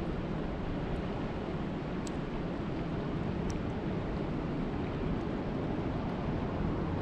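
Steady rushing noise of water, even and unbroken, with a few faint ticks about two and three and a half seconds in.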